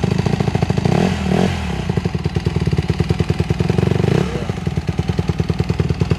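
Honda 150R dirt bike engine running at low revs with a fast, even beat, given a couple of brief throttle blips about a second in and again about four seconds in.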